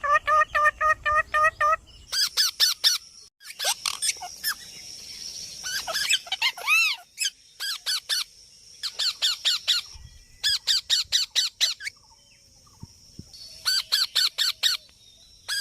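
Parrot squawking in rapid runs of short, harsh, repeated calls broken by brief pauses, with a few arching whistled notes about halfway through.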